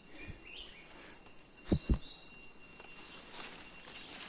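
Outdoor ambience of insects trilling steadily, with a few short chirping bird calls. Two low thuds come close together near the middle.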